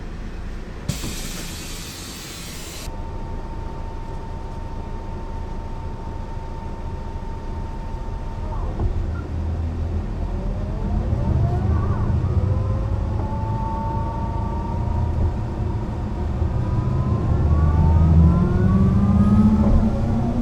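Mercedes-Benz O 405 NÜ city bus heard on board: a two-second hiss of compressed air and then a steady high tone for about five seconds. After that the diesel engine and driveline start to whine, rising in pitch as the bus pulls away and accelerates, with the engine getting louder near the end.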